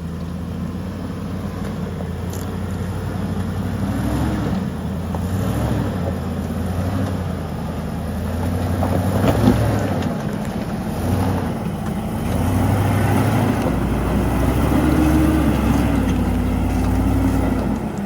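Vehicle engine running at low revs while crawling over a rough, rocky trail. Its pitch rises and falls repeatedly with the throttle, with a few knocks and rattles.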